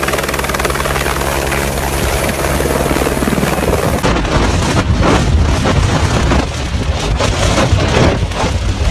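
Helicopter running loudly with a steady drone. About four seconds in, the sound changes to a rougher, uneven rushing noise.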